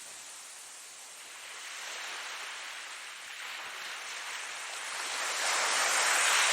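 Ocean surf: waves washing ashore as a steady hiss that ebbs and then swells, with the loudest wave breaking near the end.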